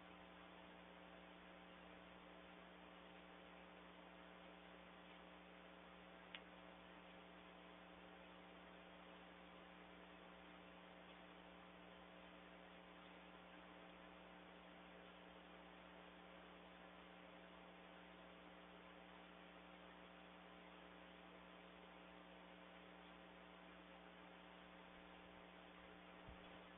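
Near silence: a faint steady electrical hum with hiss, and one faint click about six seconds in.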